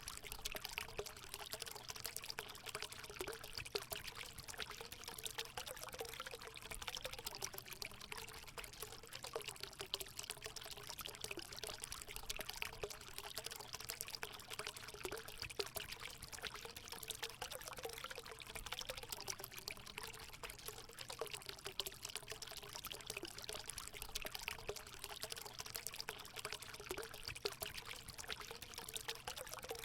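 Water pouring steadily into a hot spring pool: a continuous splashing rush with small, repeated gurgles.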